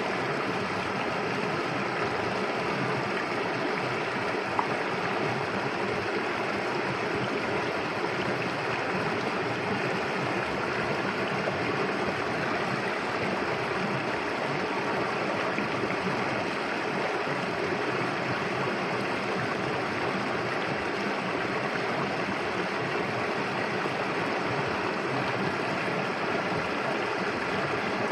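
Clear, shallow river flowing and gurgling over stones: a steady rushing of water.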